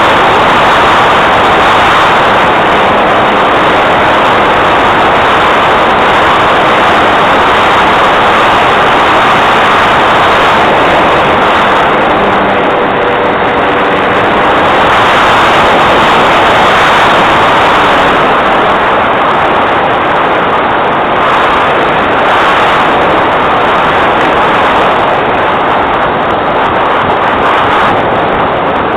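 Cessna 182 light aircraft's piston engine and propeller, a loud steady drone heard from aboard the plane.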